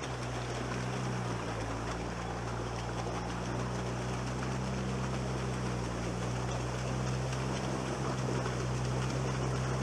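Veter all-terrain vehicle's engine running at a steady drone as it moves through water, with a constant wash of water noise underneath.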